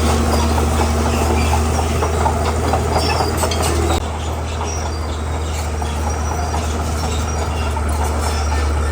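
Komatsu bulldozer working: a steady low diesel engine drone with the clanking and squeal of its steel crawler tracks. The sound gets suddenly a little quieter about four seconds in.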